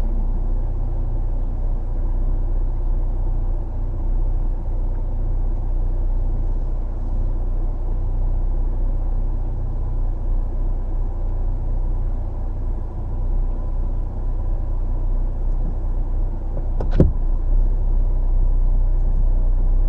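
Off-road vehicle running with a steady low rumble. A single sharp knock comes about seventeen seconds in.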